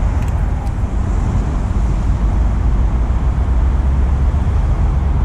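Steady low rumble of wind buffeting the camera microphone, with a couple of faint clicks just after the start.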